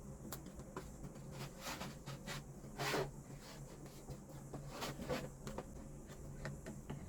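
Light handling noises: scattered small clicks and taps and a few short scrapes, one longer, louder scrape about three seconds in, over a steady low hum.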